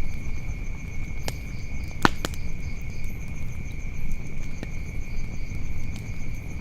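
Wood fire crackling, with a sharp pop about a second in and a louder one about two seconds in. Under it runs a steady high trill of crickets.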